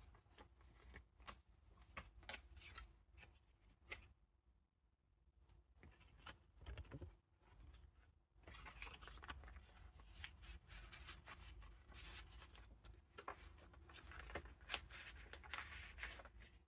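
Paper pages of a junk journal being turned and handled, with soft rustling and crinkling. The handling is sparse at first, then gets busier about halfway through.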